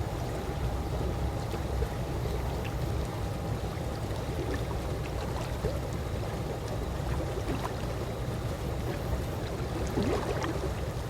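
Calm swimming-pool water lapping steadily, with occasional small gurgles, one cluster about ten seconds in.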